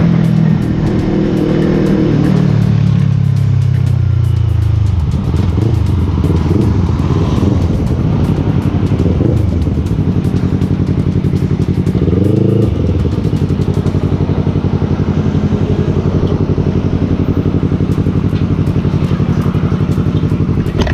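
Motorcycle engine revving, its pitch falling back over the first few seconds. A short rev blip comes about twelve seconds in, then it idles steadily with an even pulsing beat.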